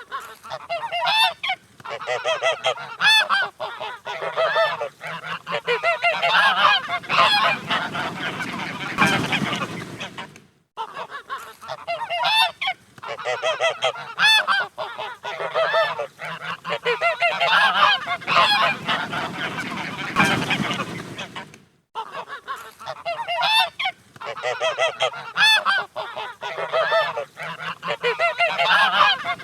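Geese honking, many loud calls overlapping one another; the honking cuts out briefly twice, about ten and twenty-two seconds in.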